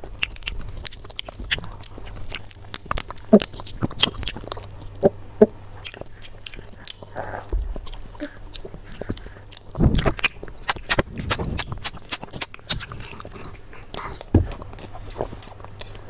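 Close-up crunchy chewing and biting: a run of sharp crunches and wet smacks, thickest and loudest about ten seconds in.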